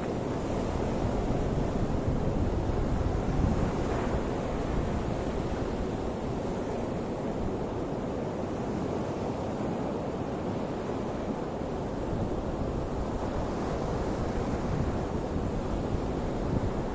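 Ocean waves breaking and washing in a steady rush, swelling a few seconds in and again near the end, with wind buffeting the microphone.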